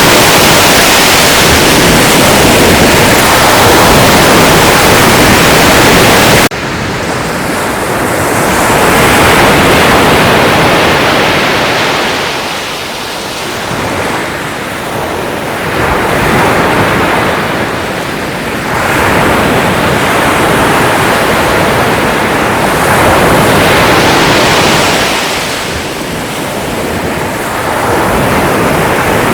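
Loud, steady rushing hiss that cuts off abruptly about six seconds in. Sea waves follow, washing in and drawing back in slow swells every few seconds.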